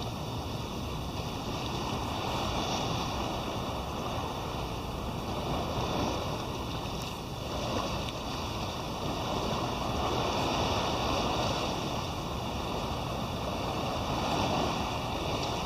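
Sea water washing and small waves lapping close to the microphone, swelling and easing every few seconds, with wind on the microphone.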